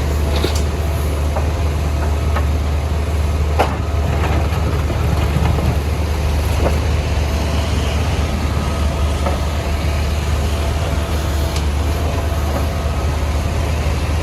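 Diesel engine of a CAT 462F backhoe loader running steadily with a deep drone, with a few sharp knocks, the loudest about three and a half seconds in.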